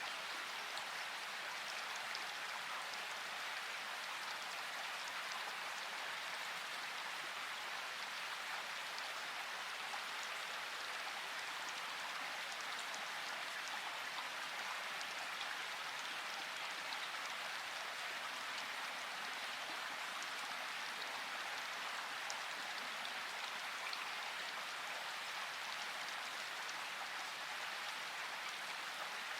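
Steady rain falling: an even, unbroken hiss with many fine drop ticks scattered through it.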